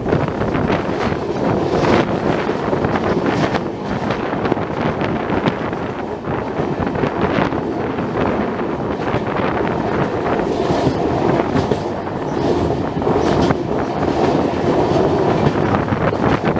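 Passenger train running at speed, heard from on board: a steady rumble of wheels on the track, with irregular sharp clacks as the wheels pass over rail joints.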